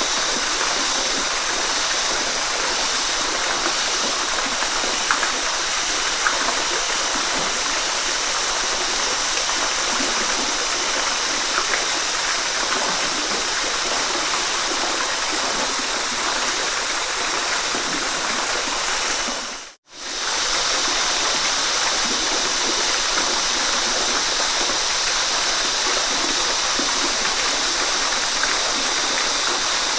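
Waterfall rushing steadily, an even roar of falling water with faint splashes in it. About two-thirds of the way through it fades out to silence for an instant and comes straight back.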